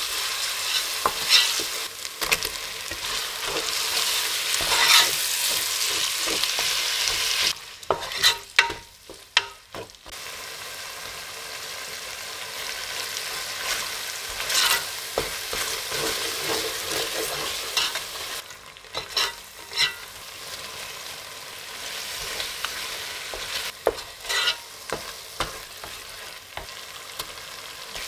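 Onions, then chicken and spices, sizzling in hot oil in a metal pot while a wooden spatula stirs and knocks against the pot. The sizzle is loudest at first, falls away about eight seconds in, leaving a few knocks, then comes back quieter.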